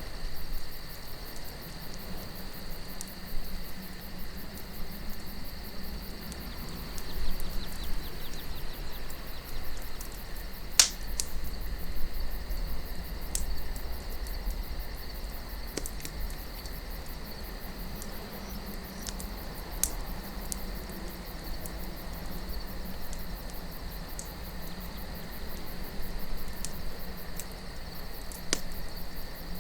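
Wood campfire crackling, with scattered sharp pops, the loudest about eleven seconds in, over a steady high chirping of crickets and a low rumble of wind.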